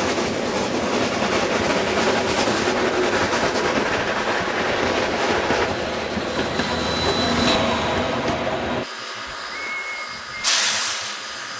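Harz narrow-gauge steam train running on the rails, wheels clattering. The noise drops away suddenly near the end, followed by a short burst of steam hiss.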